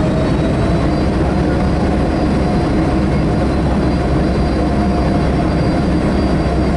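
Cabin noise inside a Boeing 757-200 airliner under power after takeoff: the steady, loud sound of its twin jet engines and the airflow, with a low hum and a faint, even whine.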